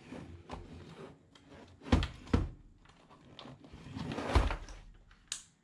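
Handling noises of hard objects being moved and set down: two sharp knocks about two seconds in, a shuffling that builds to a thump at about four and a half seconds, and a short click near the end.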